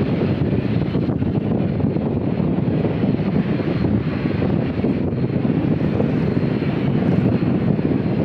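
Airliner jet engines running as a steady loud roar, mixed with wind buffeting the microphone.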